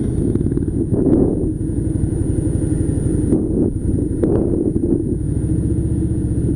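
Harley-Davidson Softail Slim's V-twin engine running with its heavy, uneven low pulsing, surging briefly about a second in and again just past four seconds.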